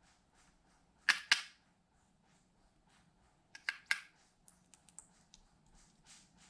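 Slime being handled, giving sharp clicking pops: a quick double pop about a second in, a cluster of pops near the middle, then lighter ticks.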